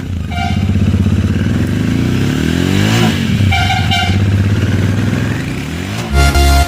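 Royal Enfield Continental GT motorcycle running through an AEW TE102 megaphone aftermarket exhaust as it rides past, its note changing as it passes about halfway through. Music comes in near the end.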